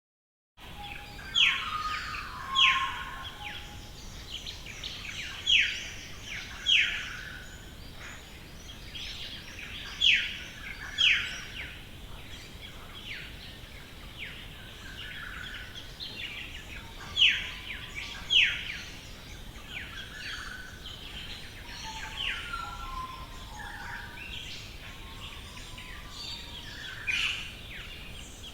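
A chorus of Australian bush birds. Loud, sharp calls drop quickly in pitch, mostly in pairs about a second apart and repeating every few seconds, over a steady background of fainter chirps and twitters.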